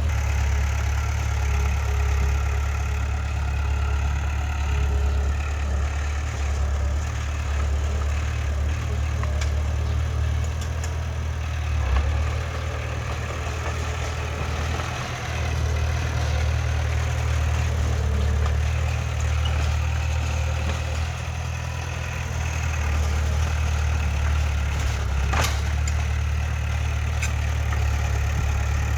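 Heavy diesel engine of earthmoving machinery running steadily with a strong low engine note, easing slightly twice. A single sharp knock comes about 25 seconds in.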